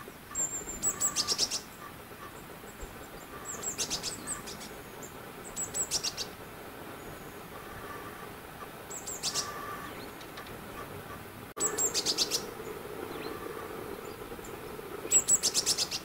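A small songbird calling about six times: each call is a short, high, clear note followed by a quick rattle of about half a dozen clicks, repeated every two to three seconds.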